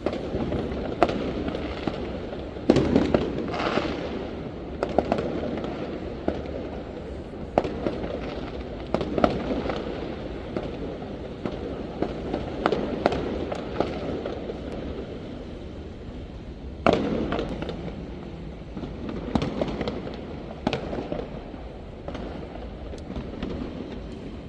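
Fireworks going off across a city: irregular sharp bangs and crackles, near and far, over a constant rumble of distant explosions, with loud blasts about three seconds in and again about seventeen seconds in.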